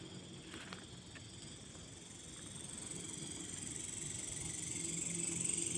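Insects chirring steadily in a continuous high-pitched drone that grows louder through the second half.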